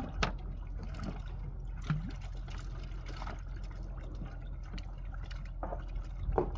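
Water trickling and splashing, with a few short sharp knocks, over a steady low hum.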